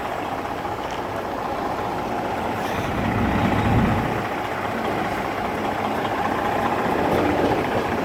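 Semi truck's diesel engine running at low idle as the rig backs slowly, briefly swelling about three to four seconds in.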